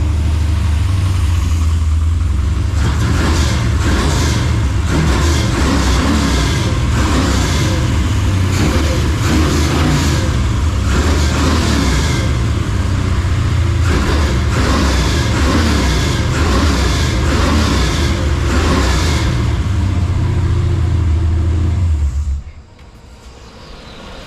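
Blueprint 383 small-block Chevy V8 running loud through freshly fitted Flowmaster mufflers, a deep steady exhaust rumble with repeated pulses on top; the sound cuts off abruptly near the end.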